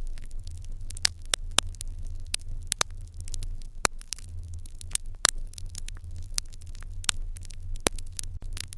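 Fire crackling in an irori hearth: irregular sharp pops and snaps over a steady low rumble, with a louder pop about five seconds in.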